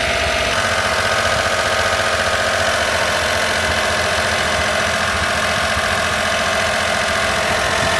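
An engine idling steadily, with an even low pulsing and a slight change in pitch about half a second in.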